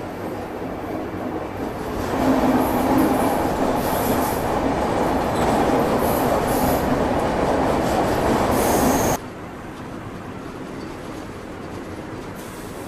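Train running on the rails, a steady clatter and rumble of wheels and coaches. It grows louder about two seconds in, then cuts off suddenly about nine seconds in to a quieter steady rumble.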